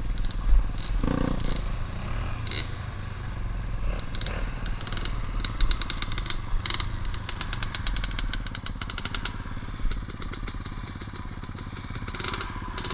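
Dirt bike engine running steadily while riding, with occasional knocks and clatter scattered through.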